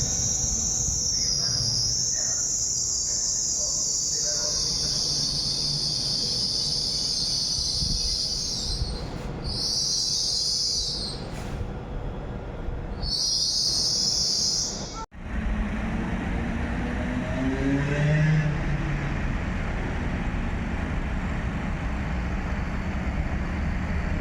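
Steady low rumble of a train, with a shrill high hiss that cuts in and out. After a sudden cut, a Hitachi ETR521 'Rock' electric multiple unit rumbles, its traction motors whining and rising in pitch as it gathers speed.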